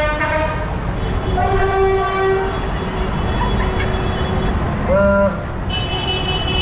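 Vehicle horns sounding over a steady low engine rumble: a long blast ending just after the start, another long blast about a second and a half in, a short toot about five seconds in, then a higher-pitched steady tone near the end.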